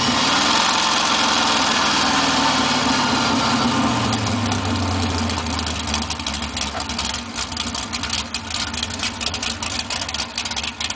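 Big-block Chevrolet V8 of a four-speed El Camino, heard inside the cab, running at steady revs and then dropping sharply in pitch about four seconds in to a low, choppy, uneven idle.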